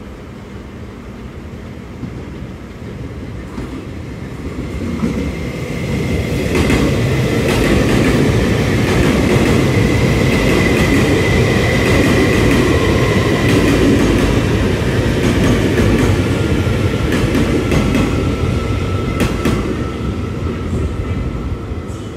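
A train running on rails, growing louder for several seconds, holding loud, then fading. A steady high whine rides over the rumble, and there are scattered clicks.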